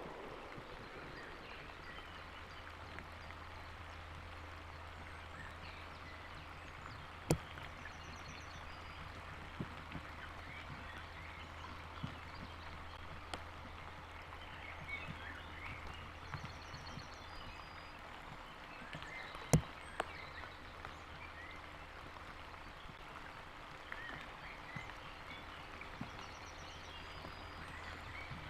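Steady rain, a soft even hiss, with a few sharp taps of drops; the loudest come about seven and nineteen seconds in. Faint high bird trills come through now and then.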